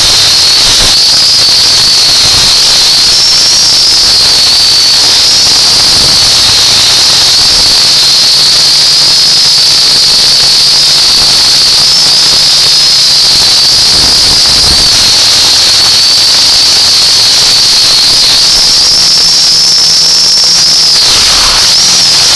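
UDI Discovery quadcopter's motors and propellers running with a loud, high whine over a hiss, the pitch wavering up and down as the throttle changes. Near the end the whine drops away as the motors spin down.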